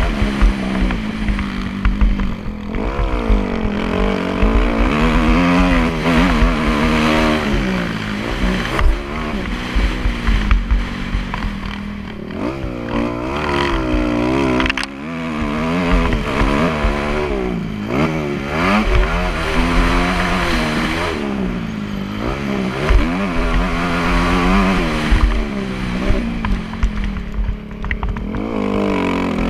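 Motocross bike engine revving up and down again and again as it is ridden, the pitch rising and falling every second or two, with low rumble and wind noise.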